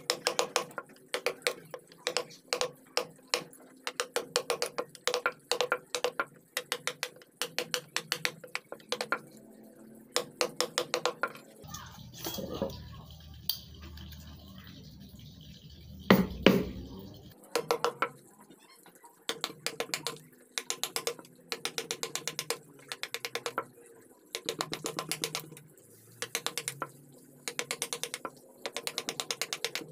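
Carving chisel struck with a mallet, cutting into wood in quick runs of light, sharp taps. About halfway the tapping pauses for a few seconds, with a low rumble and one louder knock, before it resumes.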